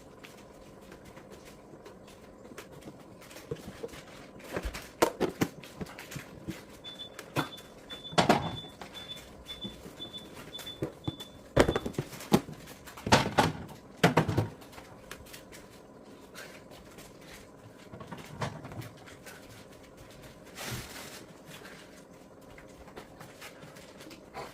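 Scattered knocks and clunks of containers and produce being handled in a refrigerator, with shelves and drawers sliding. For about five seconds a refrigerator's door-open alarm beeps a high tone about twice a second, then stops.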